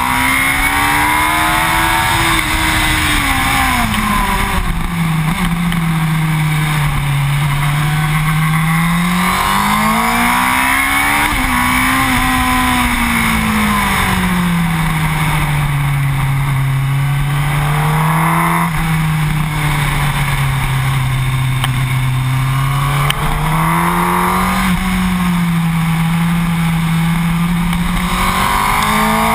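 Yamaha YZF-R1 inline-four engine at speed on a track, its pitch rising and falling slowly several times as the throttle is opened and closed, under heavy wind rush on a microphone mounted low by the front wheel.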